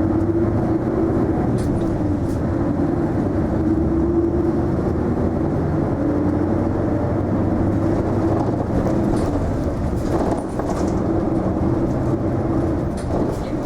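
Inside an Isuzu Erga non-step city bus under way: steady engine and drive noise with a hum that rises and falls a little, and a few faint rattles.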